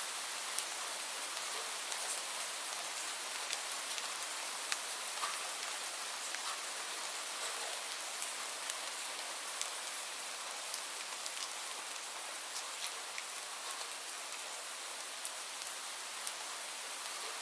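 Steady rain falling on a surface, an even hiss with many separate drops ticking sharply over it.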